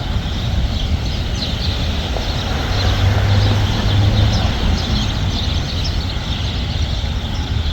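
Steady road traffic noise, a vehicle rumble that swells about three to four seconds in as it passes.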